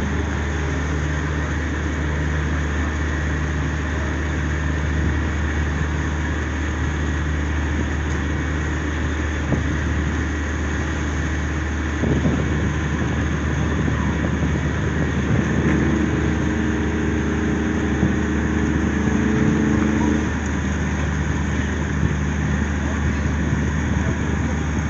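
Engines running with a continuous low hum and a steady drone. A second set of steady engine tones swells in for a few seconds about two-thirds of the way through, then drops away.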